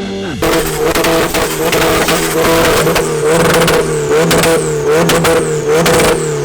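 A car engine revved hard and held at high revs, loud and crackling, starting abruptly about half a second in, its pitch wavering, then dropping as the revs fall away at the end.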